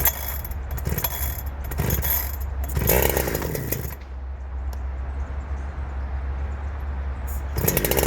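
Two-stroke chainsaw with its stock muffler running at idle while warming up, blipped up several times in the first few seconds, then settling before rising again near the end.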